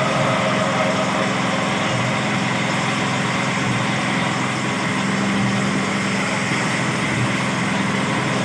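Engine of a simple well-drilling machine running steadily at an even pace, with a constant hum.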